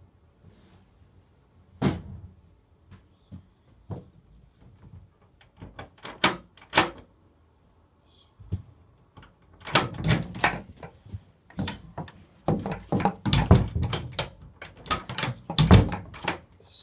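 A door or lock being worked with a key: a run of sharp clicks and thunks, a few scattered at first, then a dense cluster in the second half. It is heard from inside the locked space where the phone is recording.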